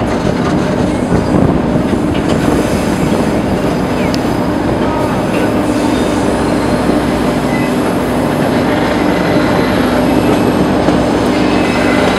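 White Pass & Yukon Route narrow-gauge passenger train running on a curve, heard from one of its coaches: a steady rumble of steel wheels on the rails, with faint high wheel squeals coming and going.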